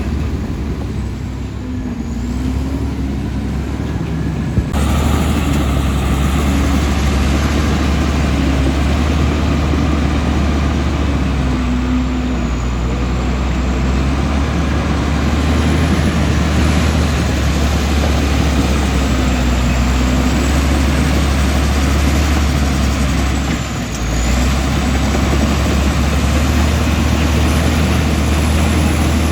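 Komatsu D65E bulldozer's diesel engine running under load, its pitch rising and falling as it works. It gets abruptly louder about five seconds in and dips briefly near the end.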